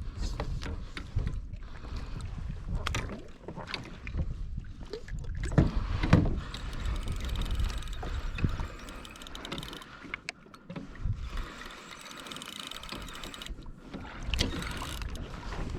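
Sea wind on the microphone and water washing against a kayak hull, with scattered knocks and clicks from the boat and tackle, during the fight with a hooked fish.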